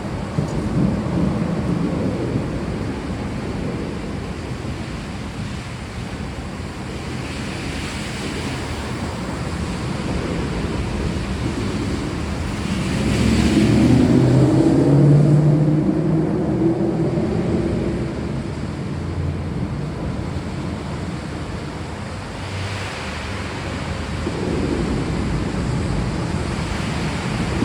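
Steady rain with a low rumble of thunder that rolls in about halfway through and dies away a few seconds later.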